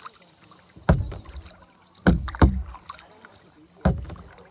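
Kayak paddle strokes, four sharp hits: one about a second in, a quick pair in the middle, the loudest, and one more near the end.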